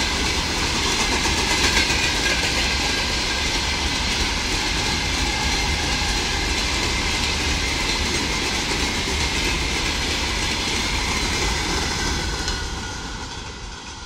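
A long freight train of open gondola wagons rolling past at speed, the steady noise of its wheels running on the rails. Near the end it fades as the train draws away.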